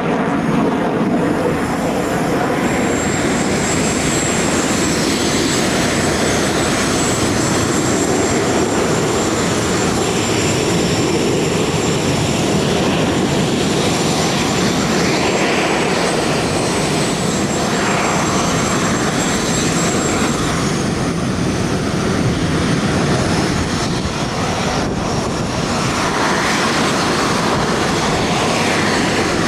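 F-22 Raptor's twin Pratt & Whitney F119 afterburning turbofans running loud and steady in flight, with a high thin whine over the jet noise that fades out about two-thirds of the way through.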